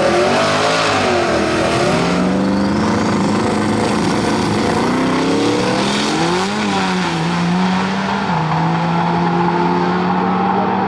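Drag race car engines running loud, their pitch rising and falling with the throttle, then settling to a steadier note for the last few seconds.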